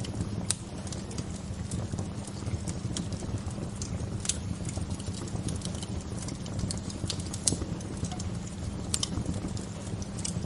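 Wood fire crackling: irregular sharp pops and snaps, a few of them louder, over a steady low rushing noise.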